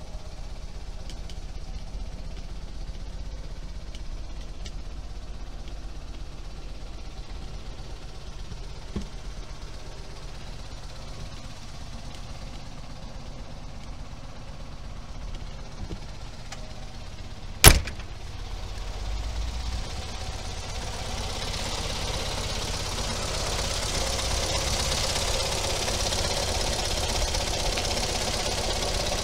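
Fiat 500F's air-cooled two-cylinder engine idling steadily, quiet at first and growing louder over the last third. A single sharp knock sounds a little past halfway through.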